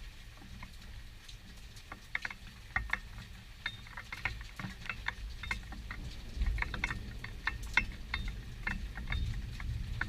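Raindrops pattering and dripping in irregular ticks during a thunderstorm, over a low rumble that swells a little over halfway through.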